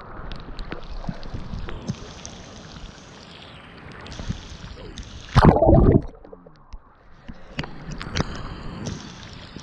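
Rain pattering on a tablet and its microphone: a steady hiss dotted with many small drop clicks. About five seconds in there is one much louder, heavy rumbling knock lasting about half a second.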